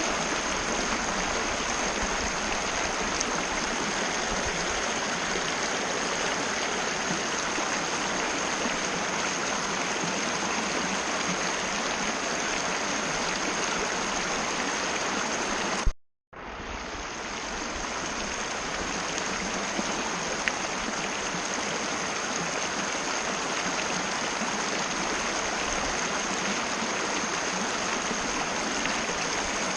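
Mountain river rushing steadily over its bed, an even wash of water noise. Just before halfway a click and a brief dropout to silence break it, then the rushing fades back in.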